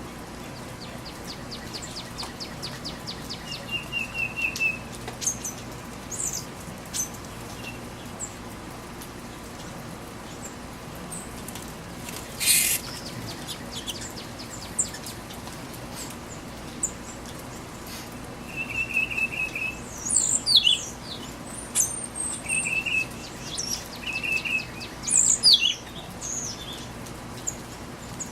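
Birds calling at a backyard feeder over the steady hiss of rain: short chirps, a rapid rattling series and buzzy trills, busiest in the second half. There is one brief loud rush of noise about halfway through.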